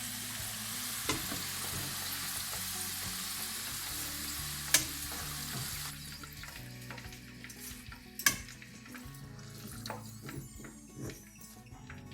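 Hot oil sizzling steadily as potato chips fry, the sizzle dropping off about six seconds in as the chips come out of the oil. Two sharp clicks of a utensil against the pan, near five and eight seconds in.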